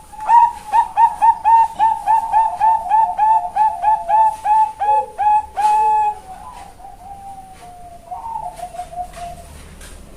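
Female Bangkok-type zebra dove (perkutut) singing a fast run of clipped coos, about four a second, for some six seconds, then trailing off in softer, lower notes.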